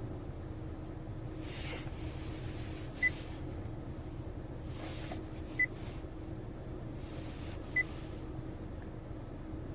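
Steady low hum of a 2016 Honda Civic sedan with its engine running, with three short, high electronic beeps from the car spaced a few seconds apart and a few soft rushing swells.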